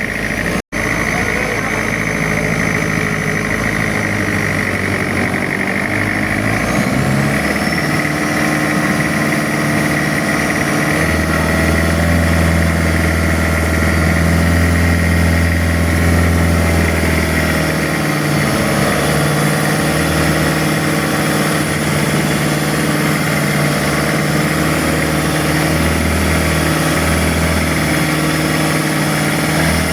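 Boat engine running steadily, its pitch shifting a few times as the throttle changes. The sound drops out for an instant just under a second in.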